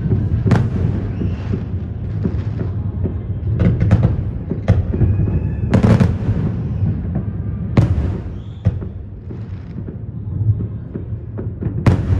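Fireworks exploding: sharp bangs at irregular intervals, about eight in all, over a continuous low rumble of more distant bursts.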